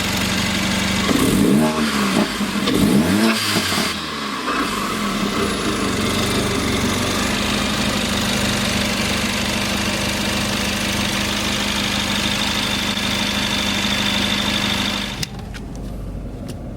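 Straight-piped Mercedes CLA45 AMG's turbocharged four-cylinder idling, then blipped twice so the revs rise and fall about a second apart before settling back to a steady idle. Near the end the sound drops away abruptly.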